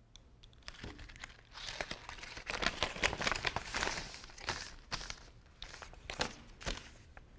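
Paper being crumpled and torn: a dense run of crackling and rustling that starts about a second in, is loudest near the middle and thins out near the end.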